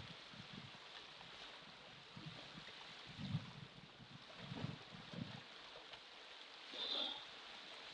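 Faint ocean waves washing, a steady hiss with a few short low thumps.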